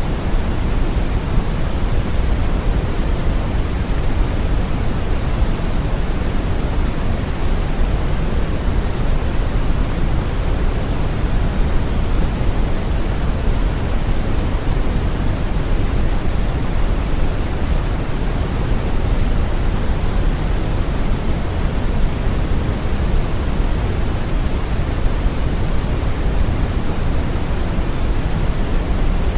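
Steady brown noise: a deep, even rushing hiss with most of its weight in the low end, unchanging throughout.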